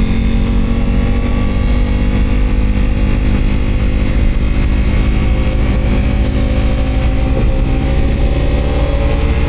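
Motorcycle engine running steadily while riding up a steep hill, its pitch rising slightly near the end.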